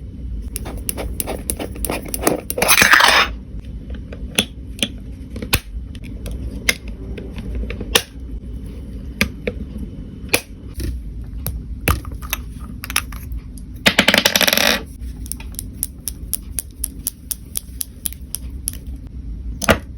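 Makeup items being handled: cosmetic cases, compacts and lids clicking and tapping in many small sharp knocks. Two short hissing rushes come about two and a half seconds in and again about fourteen seconds in, over a steady low rumble.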